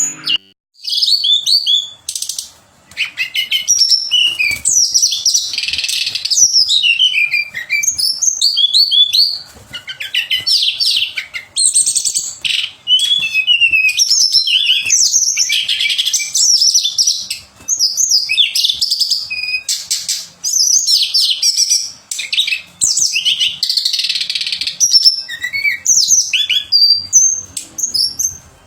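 Tledekan songbird singing: long runs of rapid, high twittering chirps and trills, broken by short pauses every few seconds.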